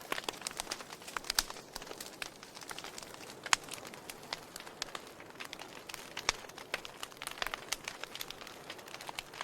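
Burning logs in a fireplace crackling: irregular sharp pops and snaps over a soft steady hiss, with a few louder pops scattered through.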